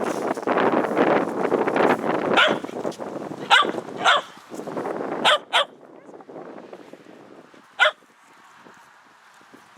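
Shetland sheepdog barking: about six short, sharp barks, some in quick pairs, the last one after a pause. A rustling noise runs under the first barks and dies away about halfway through.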